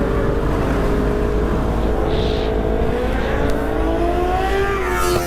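Sport motorcycle engine running at road speed, its note climbing gradually through the middle and easing off near the end, with wind rumbling on the microphone.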